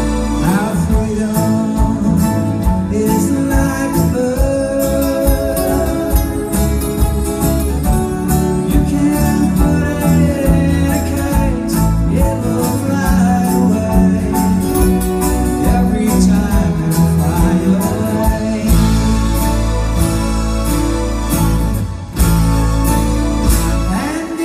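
Live band playing a pop song: guitars and rhythm section, with singing.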